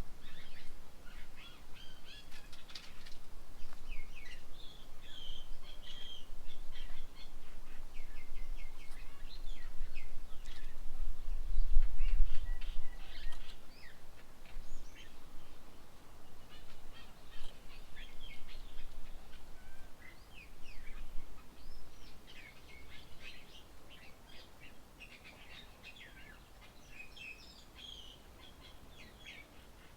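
Several birds chirping and calling with many short, overlapping notes, over a low rumble that swells about twelve seconds in and fades towards the end.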